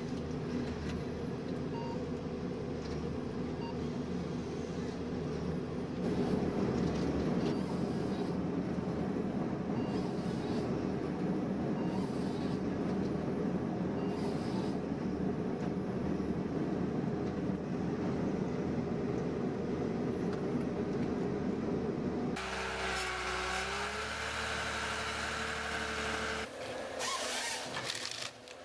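Engine-driven machinery running with a steady drone. About three-quarters of the way through it changes abruptly to a different machine sound with a sliding whine, and changes again near the end.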